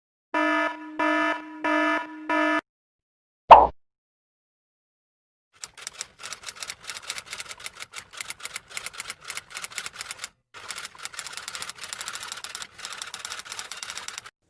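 A buzzer sounding four short times, a single plop, then rapid typewriter-like clacking of keys for about nine seconds, broken by two brief pauses.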